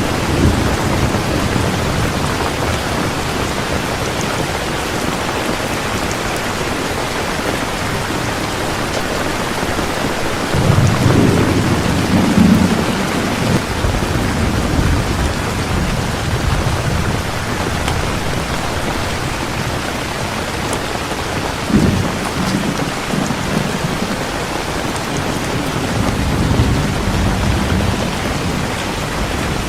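Heavy rain falling steadily, with low rolls of thunder about ten seconds in, a short sharper one a little past the middle, and another roll near the end.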